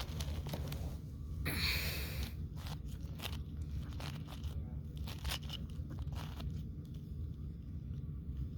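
Plastic 5x5 puzzle cube being turned by hand: scattered clicks as the layers snap round, with a longer scraping run of quick turns about one and a half seconds in. A steady low hum sits underneath.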